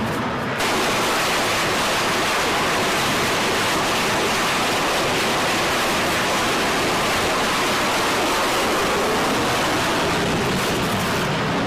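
Steady, loud rushing noise that starts abruptly about half a second in and holds level until it cuts off near the end.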